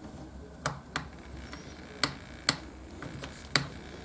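Light, sharp clicks, about five of them spaced unevenly, as a small screwdriver works the metal screws of a laptop screen hinge into place.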